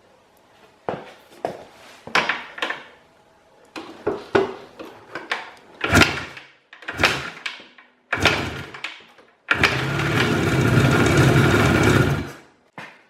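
IZh Jupiter two-stroke twin engine being kick-started: several separate kicks, then about nine seconds in it catches and runs steadily for about three seconds before cutting off suddenly.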